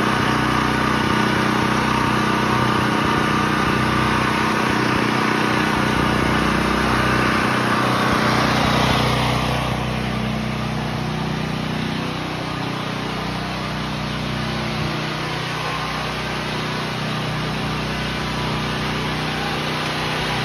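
Portable generator engine running at a steady speed. About nine seconds in the sound turns slightly quieter and duller.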